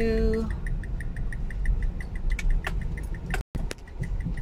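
Car engine idling, heard from inside the cabin as a steady low rumble with a faint, fast, even ticking. The sound cuts out briefly about three and a half seconds in.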